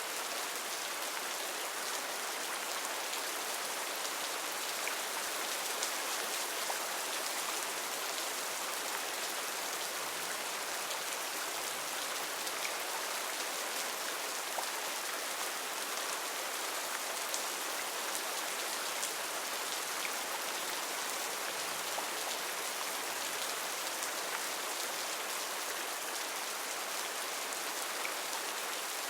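Heavy rain falling steadily in a rainforest, a dense even hiss of drops with faint scattered individual drop ticks.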